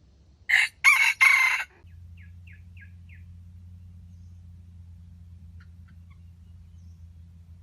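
A wild jungle fowl rooster crowing once, a short clipped crow in three parts, followed by four faint short calls. A steady low hum starts about two seconds in.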